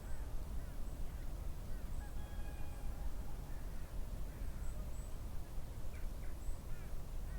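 Wild birds calling outdoors before dawn: many short calls and whistles scattered throughout, over a steady low rumble.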